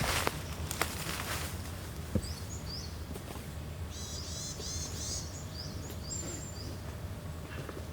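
Small birds chirping in short high calls, with a quick run of twittering about four seconds in; a few brief rustles near the start.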